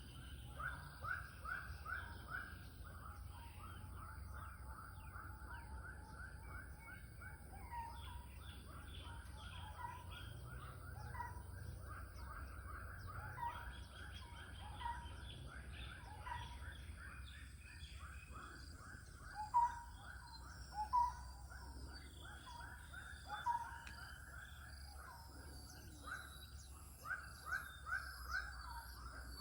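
Birds calling in runs of rapid repeated short notes, one group answering another, some close and some farther off, over a steady faint high insect drone.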